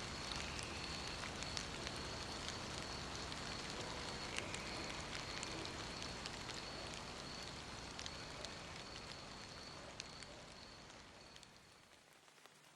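Steady rain falling, with scattered individual drops ticking through it and a faint high steady tone in the background; it fades down near the end.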